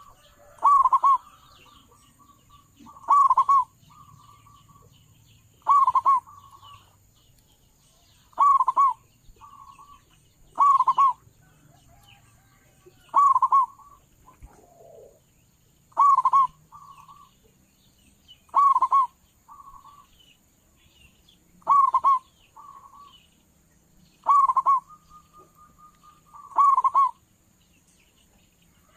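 Zebra dove (perkutut) cooing loudly: a short, strong coo followed by a softer trailing note, repeated eleven times at about two-and-a-half-second intervals. Faint chirps from other small birds sound between the phrases.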